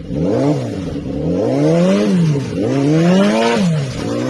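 Motorcycle engine revved up and down three times, its pitch rising and falling with each blip of the throttle.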